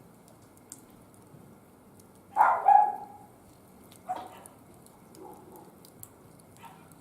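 A dog barking, about three loud barks between two and four seconds in, with fainter ones after. Faint scattered crackles of the wood fire lie underneath.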